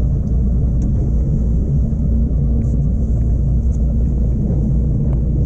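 Motorboat running under way: a steady engine drone under a loud, even low rumble.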